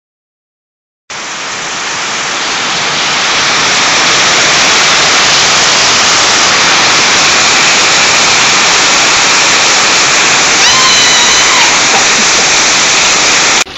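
Heavy rain pouring down in a steady downpour during a flash flood. It fades in over the first few seconds and cuts off suddenly near the end.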